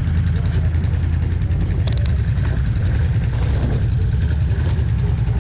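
An off-road vehicle's engine running steadily, a low, even drone, with a short click about two seconds in.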